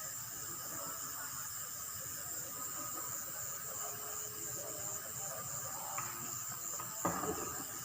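Steady high-pitched insect chorus, with a single sharp knock about seven seconds in.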